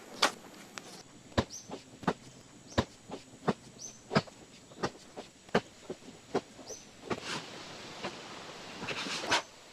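An irregular series of sharp knocks or strikes, roughly one or two a second, with a few short high chirps between them.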